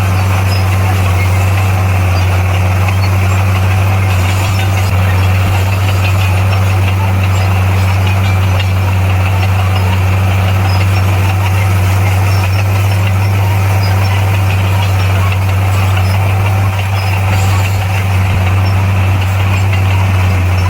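Heavy diesel engine of earthmoving equipment running at a steady speed, with a deep, unchanging hum.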